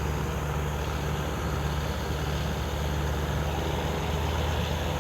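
A heavy engine idling with a steady deep hum.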